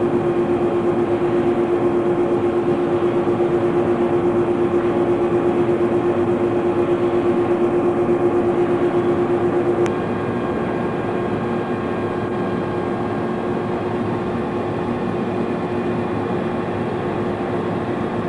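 Laser cutting machine running, its vacuum table blower giving a steady rushing noise under a strong steady hum. About ten seconds in a click sounds and the hum stops, leaving the steadier, slightly quieter blower noise.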